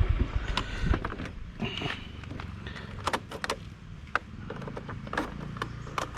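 A motorbike engine running with a quick even pulse, dying away about a second in, then scattered sharp clicks and knocks over a low rumble.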